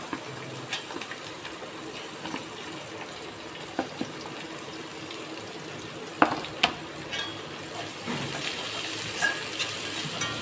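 Chopped onion sizzling in hot ghee in a kadai, a steady hiss, with a few clinks of a metal slotted spoon against the pan about six seconds in and more stirring scrapes near the end.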